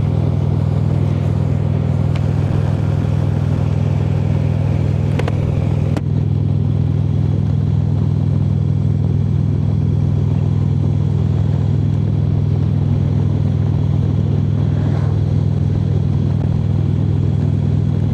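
Harley-Davidson V-twin motorcycle cruising steadily at highway speed, its engine droning evenly with road and wind noise over it. There is a brief small dip about six seconds in.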